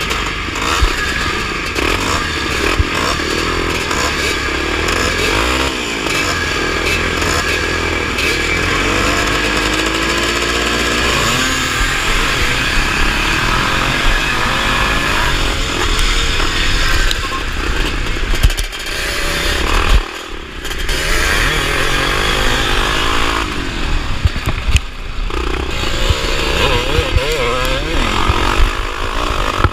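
Vintage motocross motorcycle engines racing, the throttle opening and closing so the engine note keeps rising and falling, with a brief drop about twenty seconds in.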